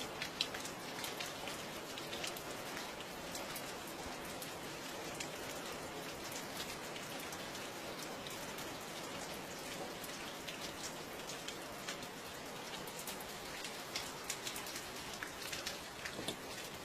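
Steady rain falling, a constant patter with many distinct drops striking a surface close by.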